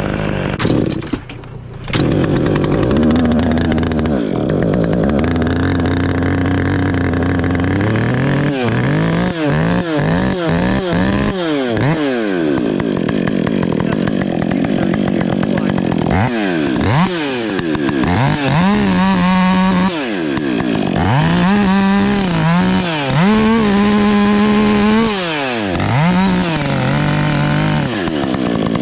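Chainsaw engine running, first at a low steady speed, then revved up and down again and again from about eight seconds in, as when cutting wood.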